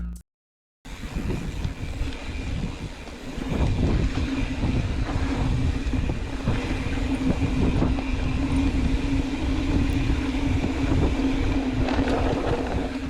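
Mountain bike riding down a dirt trail, heard from a helmet or bike camera: wind buffeting the microphone and tyres rolling and rattling over dirt and rock, with a steady buzz. It starts after a brief silence about a second in.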